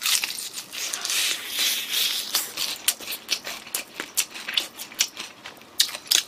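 Crispy fried chicken being bitten and chewed close to the microphone: a fast, uneven run of crisp crunches and crackles, with a rustling hiss in the first couple of seconds.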